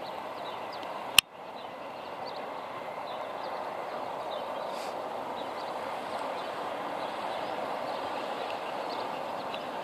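Class 150 Sprinter diesel multiple unit approaching slowly over junction pointwork: a steady rumble of engine and wheels that grows gradually louder. A single sharp click about a second in.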